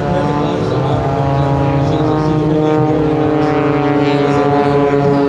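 Propeller-driven aerobatic planes' piston engines droning steadily overhead, a dense even hum with only slight shifts in pitch.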